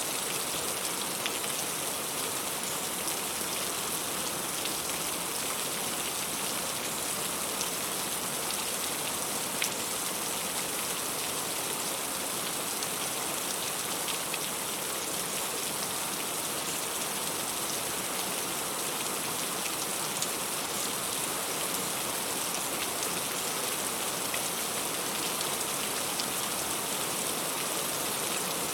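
Heavy rain falling steadily, a dense even hiss with scattered louder individual drops striking.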